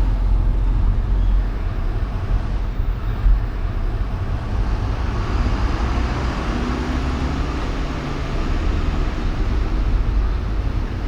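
City road traffic heard from a moving car: a steady low rumble of road and engine noise, with a passing vehicle swelling louder around the middle.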